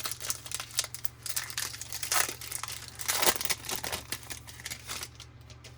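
Foil wrapper of a baseball card pack crinkling and tearing as it is opened by hand, a dense run of crackles that dies away near the end.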